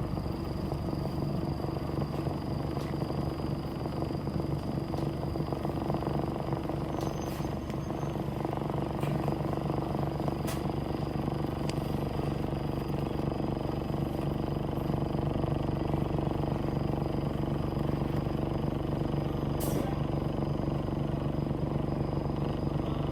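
Interior sound of a Nishitetsu city bus: the engine runs steadily with a low hum and road noise, a thin steady high whine runs over it, and a few light clicks and rattles come through.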